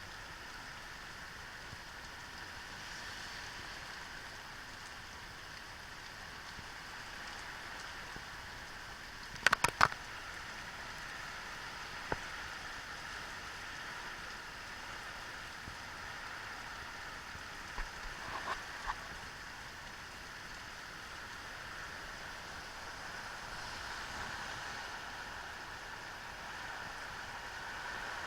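Steady rain falling, an even hiss throughout. A quick cluster of sharp clicks about ten seconds in is the loudest moment, with a single click a couple of seconds later and a few fainter ones past the middle.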